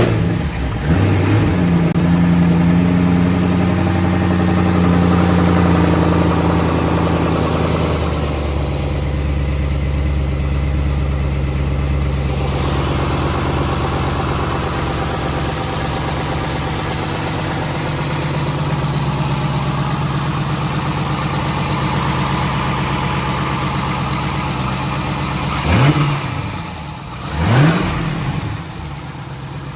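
C5 Corvette Z06's LS6 V8 starting about a second in and running at a raised idle, then settling to a lower, steady idle after about eight seconds. Near the end the throttle is blipped twice in quick succession, with short revs that rise and fall.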